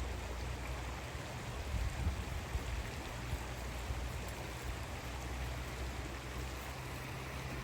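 River water flowing, a steady even rush with no distinct splashes.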